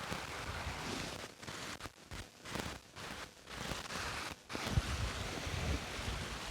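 Wind buffeting the microphone over the wash of sea waves, in uneven gusts that rumble more strongly in the second half.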